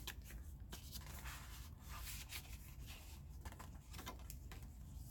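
Paper pages and cards of a handmade junk journal being handled and turned: soft, irregular paper rustles with a few light taps.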